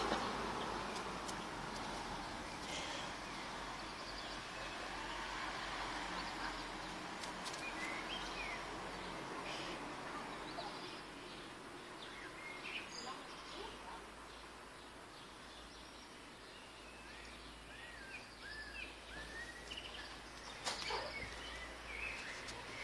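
Quiet outdoor ambience with small birds chirping now and then in the background, short curved chirps that come more often in the second half. A couple of light knocks near the end.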